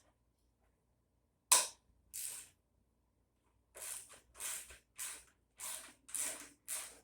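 Hand socket ratchet: two sharp clacks, then the ratchet worked back and forth in short clicking strokes, about two a second, on a bolt of the tiller.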